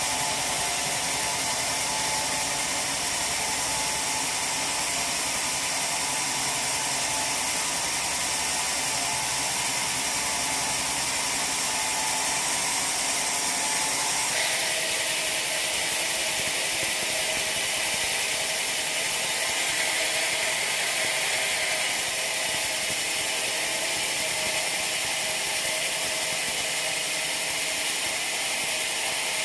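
Sawmill machinery running steadily: a dense, even mechanical noise with a strong high hiss. Its character shifts abruptly about halfway through.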